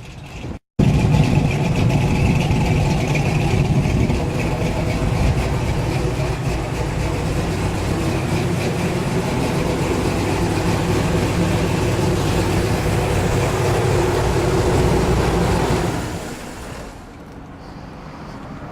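Small-block Chevy 350 V8 with a big cam and headers running steadily with a deep rumble. About three seconds before the end the engine note drops away and quietens.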